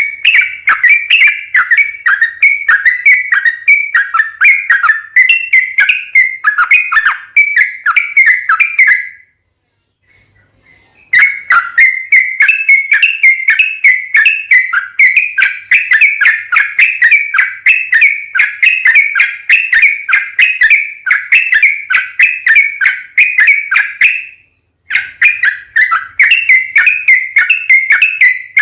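Trucukan (yellow-vented bulbul) singing long, fast runs of short bubbling notes, several a second. The song breaks off for about two seconds near the middle and again briefly later on. This is the long 'ropel' song used as a lure to get other trucukan to answer.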